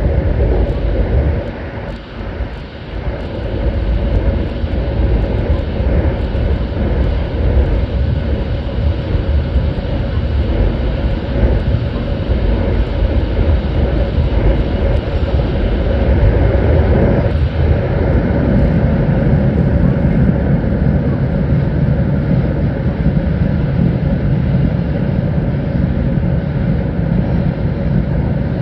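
Sanyo Shinkansen train running through a tunnel: a loud, steady, deep rumble that dips briefly about two seconds in.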